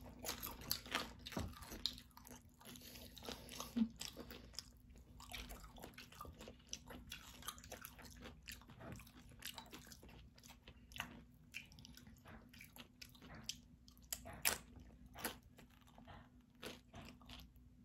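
Tortilla chips from a plate of loaded nachos being bitten and chewed: irregular crisp crunches, some sharper and louder than others.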